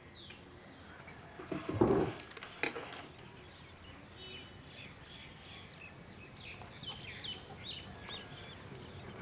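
Birds chirping in the background: many short rising and falling calls, thickest in the second half. About two seconds in there is a brief, louder sound, followed by a few clicks.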